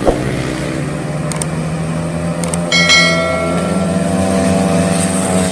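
Motorcycle engine running at a steady speed, with a few light clicks and a short ringing tone about three seconds in.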